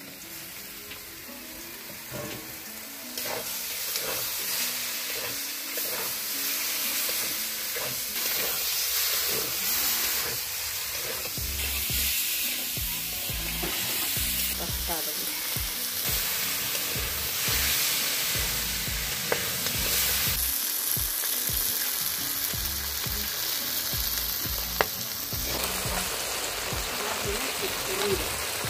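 Raw chicken pieces sizzling and frying in hot oil and onion-spice masala in a metal karahi (wok). A metal ladle stirs and scrapes against the pan. The sizzle grows louder about three seconds in, as the meat goes in.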